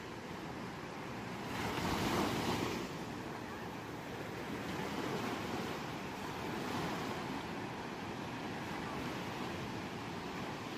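Ocean waves washing onto a shore in a steady hiss, with one louder wave surging about two seconds in and gentler swells later.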